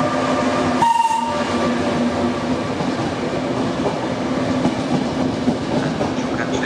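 Train on the rails by the platform: a steady hum with several held tones over rumbling wheel noise, and a short high tone about a second in.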